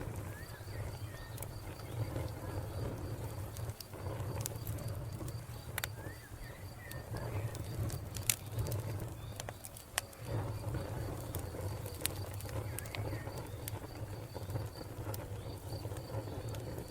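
Wood fire crackling with scattered sharp pops over a low rumble, while a cricket chirps in a fast, even pulse and a bird gives a few short chirps.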